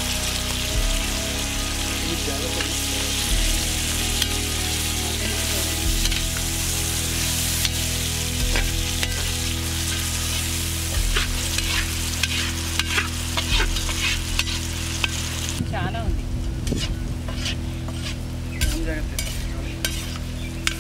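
Mutton pieces frying and sizzling in a large iron kadai while a metal spatula stirs and scrapes them through the oil. Towards the end the sizzle dies down and the separate scrapes of the spatula against the pan stand out.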